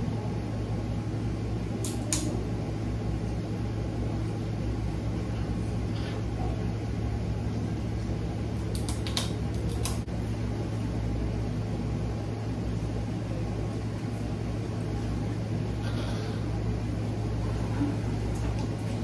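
Steady low mechanical hum, with a few short clicks or taps: about two seconds in, twice around nine to ten seconds in, and again near sixteen seconds.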